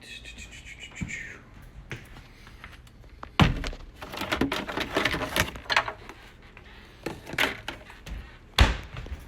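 Two heavy thumps about five seconds apart, with rustling and rubbing between them.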